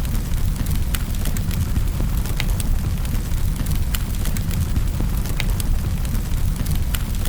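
Wood fire burning in a fireplace, crackling with scattered sharp pops, several a second at irregular intervals, over a steady low rumble.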